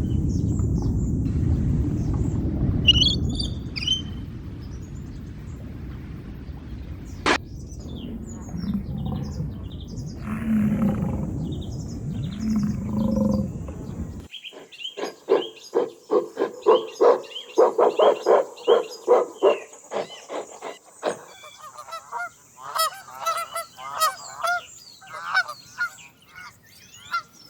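Steady low rumbling noise for about fourteen seconds, then after a sudden cut a fast series of repeated animal calls, followed by higher chirping calls near the end.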